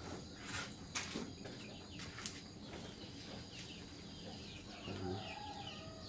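Birds chirping in many short, falling high notes, with a few sharp knocks in the first couple of seconds and a short lower call about five seconds in.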